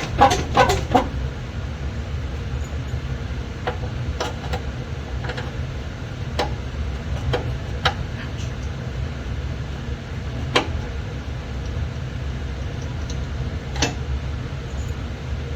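Scattered sharp clicks and knocks, a second or a few seconds apart, over a steady low hum, with a short flurry of them at the start.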